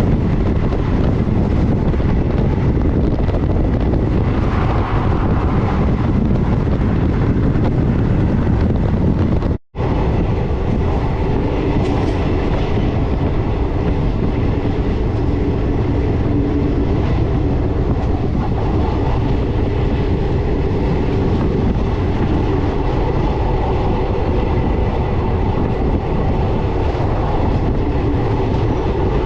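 Passenger train running along the track: a steady rumble of the coaches with some clickety-clack from the wheels. The sound cuts out for a moment about ten seconds in, then resumes.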